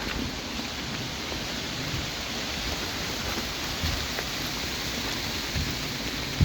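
Steady rain falling, an even hiss of drops, with a low thump near the end.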